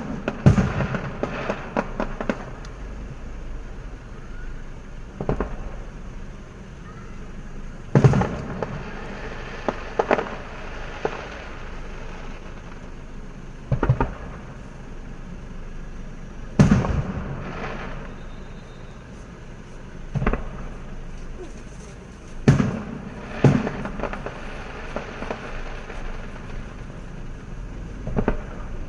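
Fireworks going off: a sharp bang every few seconds, each followed by a brief crackle.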